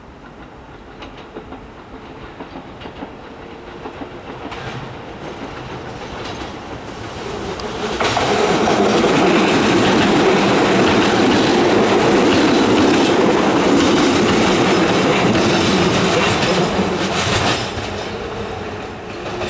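Keio 7000 series electric train approaching and passing close by, its wheels clattering over the rail joints. The sound builds over several seconds, stays loud for about ten seconds as the cars go past, then drops off sharply near the end.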